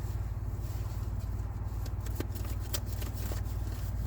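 Tarot cards being handled, with a few light clicks and flicks, over a steady low hum inside a car.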